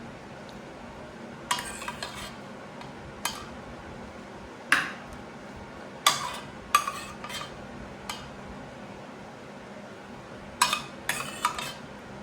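Metal cutlery clinking against dishes and pans in a kitchen: a few short clusters of sharp, ringing clinks, with pauses between them.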